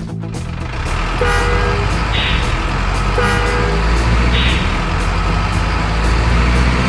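Truck engine rumbling steadily, with two short horn toots about two seconds apart.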